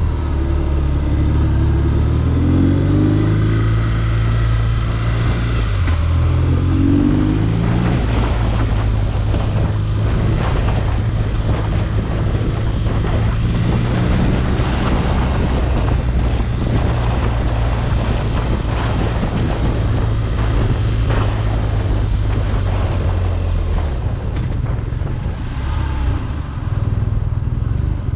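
BMW R nineT Urban G/S's boxer twin under way, its note climbing and dropping in steps through the gear changes, then holding steady at cruising speed under heavy wind noise on the microphone. About 24 seconds in, the engine note drops as the throttle closes.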